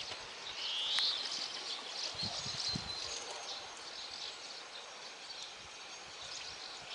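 Small birds chirping and singing, with one brighter rising call about half a second in, over a steady outdoor hiss.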